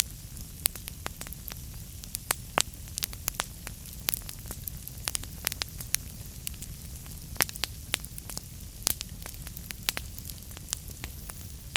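Wood fire crackling in a fireplace: frequent sharp pops and snaps, several a second, over a steady low rumble and hiss.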